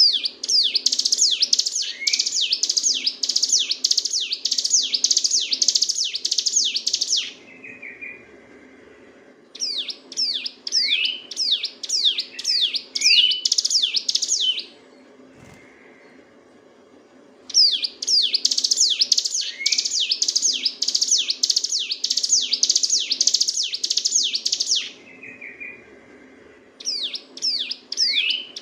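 Ciblek gunung (hill prinia) singing in long bouts of rapid, repeated downslurred notes, about three a second, with pauses of about two seconds between bouts. A faint steady low hum runs underneath.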